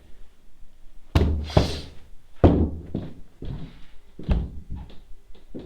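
A run of heavy thuds and knocks at uneven intervals, the loudest about a second in and again about two and a half seconds in.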